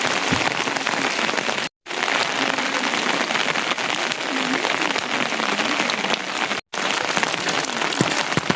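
Steady rain falling, an even dense hiss of drops. It drops out to silence for an instant twice, about two seconds in and about two-thirds of the way through.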